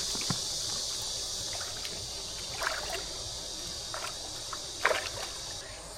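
Water sloshing in a shallow creek, with a few short splashes, the loudest near the end, over a steady high-pitched insect buzz.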